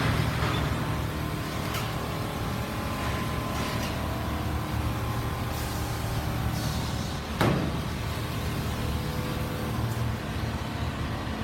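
Several Richpeace single-head computerized quilting machines running together, a steady mechanical hum with a sharp clack about seven seconds in.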